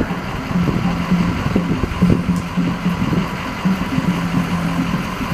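An engine running steadily at idle, a low hum over street noise.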